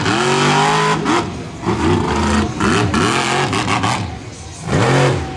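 Monster truck's supercharged V8 revving hard again and again, its pitch climbing with each burst of throttle. The throttle drops off briefly a little after a second in and again about four seconds in, then comes back on.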